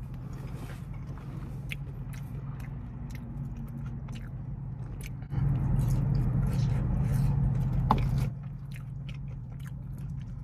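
Close-up chewing and biting of fries dipped in ranch: wet mouth sounds with many small sharp clicks. Under it runs a low steady hum that grows louder for about three seconds in the middle.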